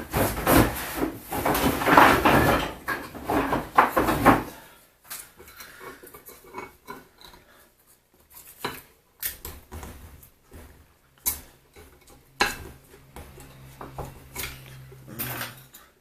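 Steel vise parts clattering and clinking as they are handled and fitted back together: dense rattling for the first few seconds, then scattered clicks and knocks. A steady low hum sounds for about three seconds near the end.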